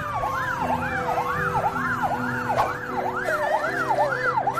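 Emergency-vehicle siren yelping, its pitch sweeping up and down about two and a half times a second, over steady low held tones.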